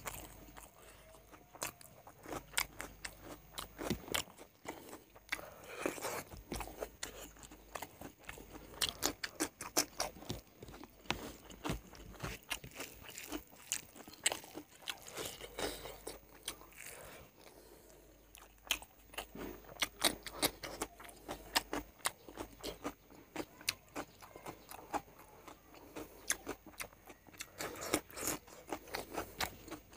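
A person chewing and biting mouthfuls of rice and chicken curry eaten by hand, with many short wet clicks and crunches throughout. Near the end come crisper crunches as he bites into raw cucumber.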